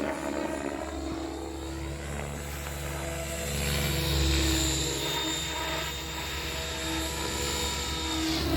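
XL Power 550 electric RC helicopter flying 3D manoeuvres: rotor chop with the whine of the motor and gears, growing louder about four seconds in, with the pitch bending near the end as the head speed and load change.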